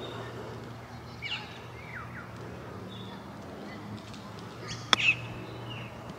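A golf club strikes the ball once in a short chip shot, a single sharp click about five seconds in. Birds chirp and whistle on and off throughout.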